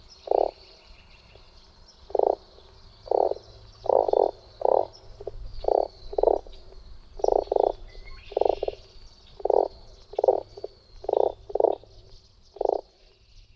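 Frogs croaking at a pond: short low croaks repeated irregularly, roughly one every half second to a second, often in quick pairs.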